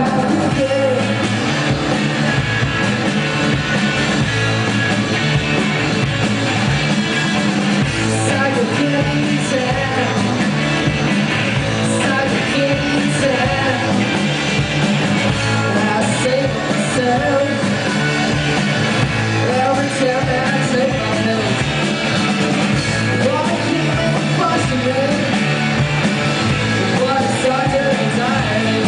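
Live rock band playing with a singer, a dense and steady wall of sound.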